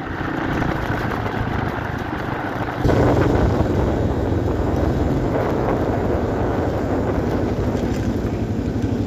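A 1990 Yamaha XT350's single-cylinder four-stroke engine running steadily as the bike is ridden, with rushing noise over the microphone. It gets louder about three seconds in.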